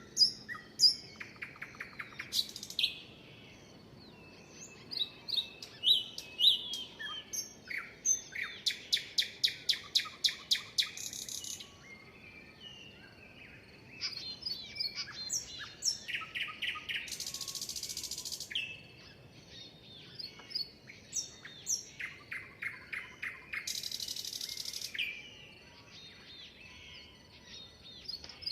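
Several wild birds singing and chirping together, their phrases overlapping, with rapid trilled runs of high notes. Twice, a buzzy, hissing call about a second long cuts across the chorus.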